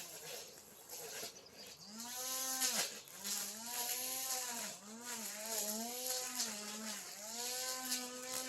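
Two-stroke brush cutter engine running at high speed while cutting grass, its pitch sagging and recovering again and again as the blade takes the load.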